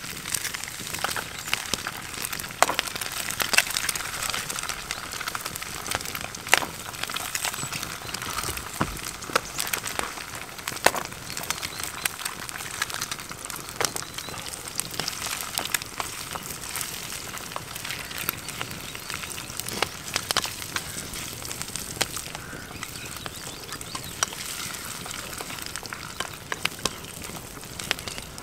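Diced bacon and eggs sizzling in a frying pan over an open campfire, with a steady hiss full of small pops and crackles from the fat and the fire.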